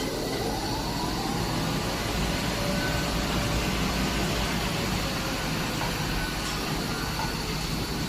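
Bottero glass cutting machine's bridge drive running as the bridge travels: a whine rising in pitch over the first couple of seconds as it speeds up, then a steady mechanical running noise. The owner traces the unusual noise to a worn bearing that needs replacing.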